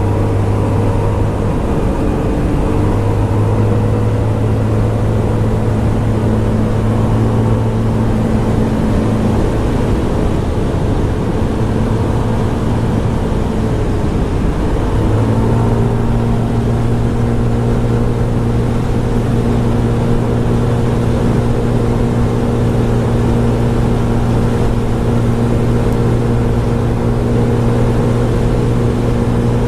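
Scomadi TT125 scooter's 125cc single-cylinder engine running at a steady cruise, with wind and road rush over it. In the middle the engine note weakens for a few seconds, then comes back slightly higher and holds steady.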